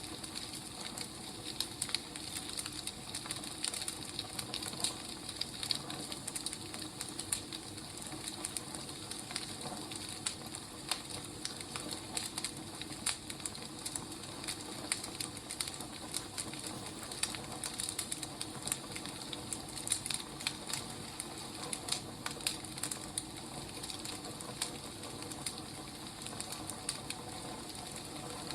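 Wood fire crackling: a steady hiss with irregular sharp pops and snaps throughout.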